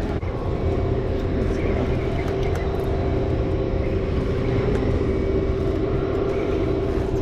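Boat engine idling steadily: a continuous drone with a steady hum over a low, uneven rumble.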